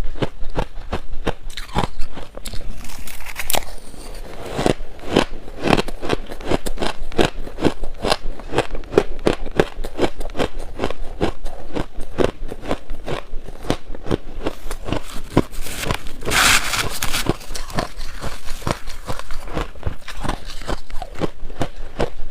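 Shaved ice being crunched and chewed, a steady run of sharp crunches at about three or four a second, with a louder, longer crunch about two-thirds of the way through.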